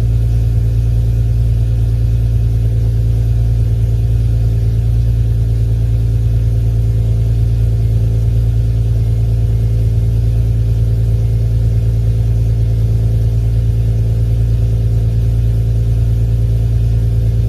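Car engine idling steadily on a cold start, heard from outside the car, its pitch and level unchanging.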